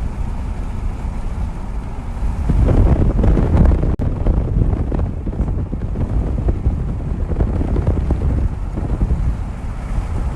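Wind buffeting the microphone: a heavy, noisy low rumble that grows louder about two and a half seconds in.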